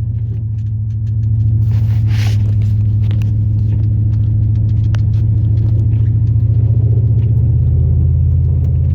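The 8.1-litre big-block V8 of a 2002 Chevrolet Silverado plow truck running steadily under way, a deep drone whose pitch drops slightly about seven seconds in. A brief hiss about two seconds in.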